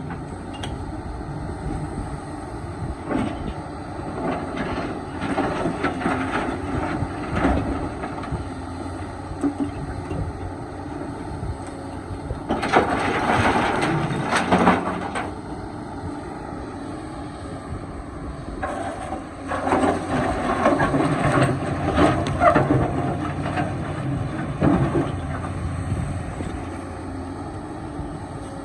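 Excavator engine running steadily, with bouts of rough scraping and grinding from the bucket working rock and soil, loudest about halfway through and again about two-thirds of the way in.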